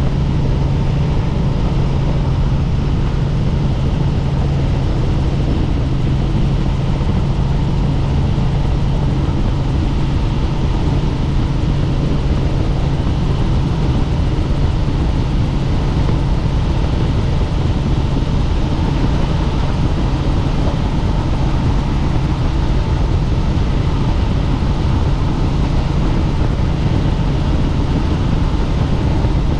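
Helicopter in flight: the steady, loud drone of its rotor and engine, with a strong low hum underneath.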